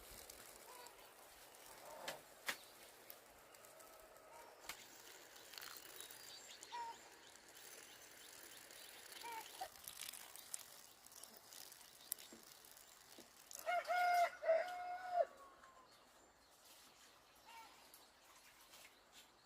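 A rooster crowing once, about fourteen seconds in: a pitched call in a few short notes that ends on a longer held note. Around it are scattered light knocks and faint bird chirps.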